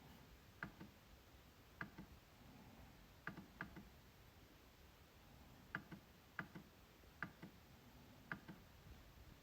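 MacBook trackpad being clicked: single sharp clicks at uneven intervals, about eight in all, with two in quick succession about three and a half seconds in.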